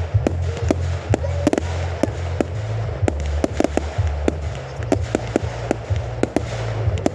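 Fireworks going off in a rapid, irregular string of sharp bangs and cracks, several a second, over a steady low rumble.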